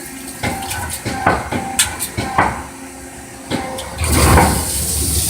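CNC lathe tool turret indexing around, with a series of clunks and clicks. About four seconds in, coolant starts spraying through the tool holders with a steady loud hiss.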